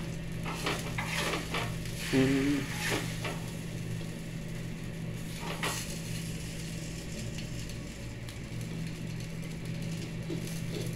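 Enchilada tortillas in red sauce frying in a skillet, a steady sizzle, under a steady low hum. A few clicks and knocks of utensils against the pan come in the first seconds and once more about six seconds in.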